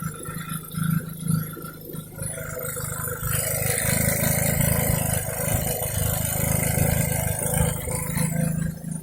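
Small homemade four-stroke engine built from a refrigerator compressor, firing in uneven bursts, then running steadily for about five seconds before cutting out near the end.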